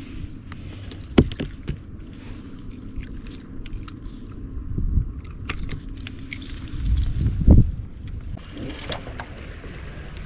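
Light metallic clinking and rattling with several dull thumps, the sound of gear being handled in a boat, over a steady low hum.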